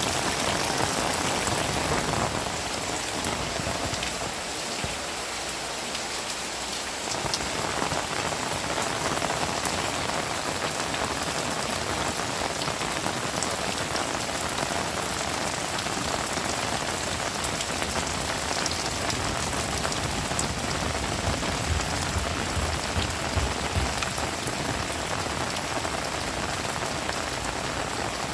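Heavy rain falling steadily, a dense continuous hiss with scattered drop ticks, easing slightly for a few seconds early on before returning to full strength.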